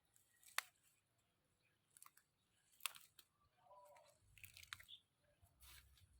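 Faint, scattered crisp snaps and crunches, about six of them, like fresh vegetable stems being snapped off by hand.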